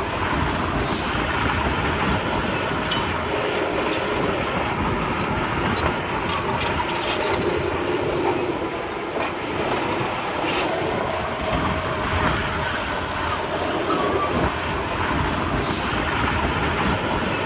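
Komatsu D31P crawler bulldozer working: its diesel engine runs steadily while the steel tracks clank and squeak, with scattered sharp metallic clicks.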